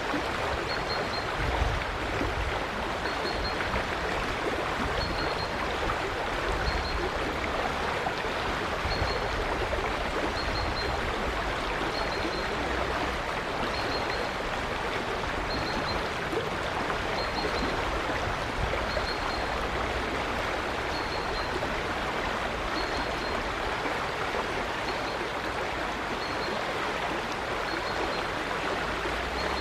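River water flowing steadily. A bird gives a short, high chirp about every second or two.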